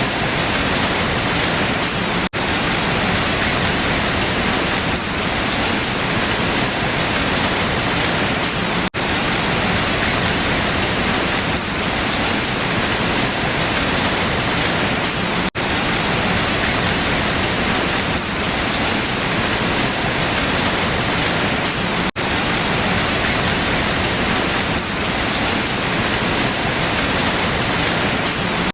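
Steady rain falling on leaves, an even patter of drops, broken by a split-second gap about every six and a half seconds.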